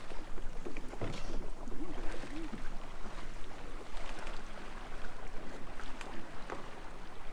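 Lakeside water and wind noise around kayaks, with a low wind rumble on the microphone and scattered light knocks.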